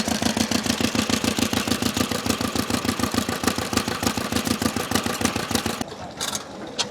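Vintage stationary engine running steadily with a rapid, even exhaust beat. The sound cuts off abruptly about six seconds in, leaving a quieter background with a couple of sharp clicks.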